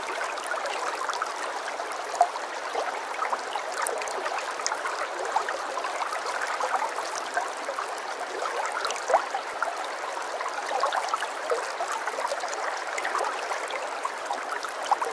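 Running water of a small stream, babbling steadily with many small splashes and gurgles.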